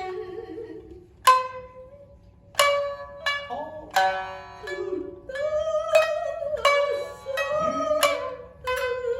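Shinnai-bushi shamisen music: about ten sharp, ringing plucks spaced unevenly, with a lull about two seconds in. Under them are long, wavering sung notes from the jōruri chanter that slide up and down in pitch.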